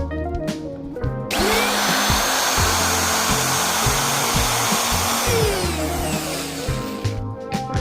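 An electric power tool's motor spins up about a second in, runs with a loud, even hiss for about four seconds, then winds down. Background music with a bass line and drums plays throughout.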